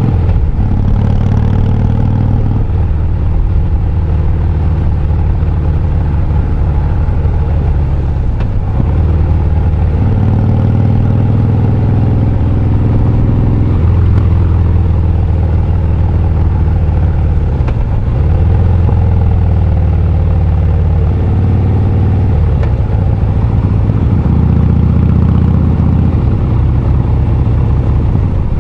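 Harley-Davidson Breakout's V-twin engine running under way, its exhaust note stepping up and down several times as the rider works the throttle and gears.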